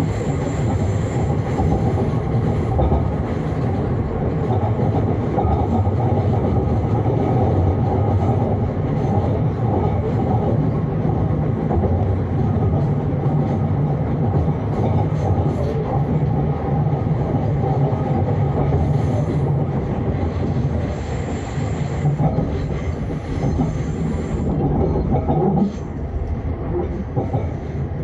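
Vienna S-Bahn train running along the rails: a steady rumble of wheels and running gear. A thin high whine comes in at the start and again about three-quarters through, and the noise eases a little near the end.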